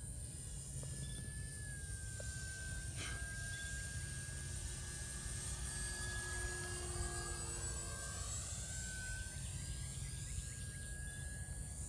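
Radio-controlled BlitzWorks Cessna 182 model plane flying past, the drone of its motor and propeller swelling and shifting in pitch as it goes by. A steady cricket trill and a low rumble run underneath.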